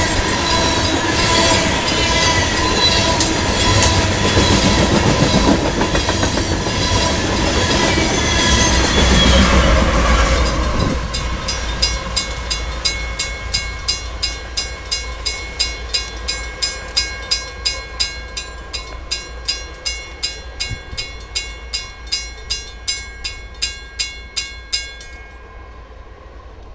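Loaded coal hopper cars rolling past with clatter and a steady wheel squeal. About eleven seconds in this gives way to a railroad grade-crossing bell ringing about three times a second, which stops near the end.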